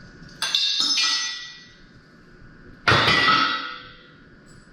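Heavy steel engine stand parts clanging together twice during assembly, each clang ringing on for about a second.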